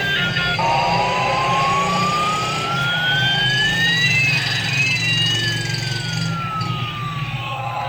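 Electronic siren sound effect from a battery-powered light-up toy: a tone sweeps slowly up while a second sweeps slowly down across it, over a steady low buzz and hiss.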